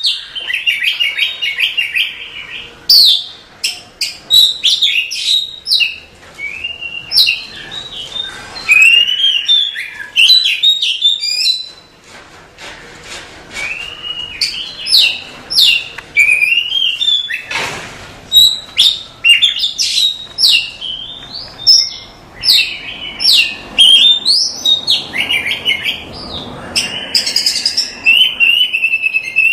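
Oriental magpie-robin (kacer) singing a long, continuous song of loud whistled phrases: rising and falling slurs mixed with quick chattering runs and high rapid notes, with a short harsh noisy burst a little past the middle.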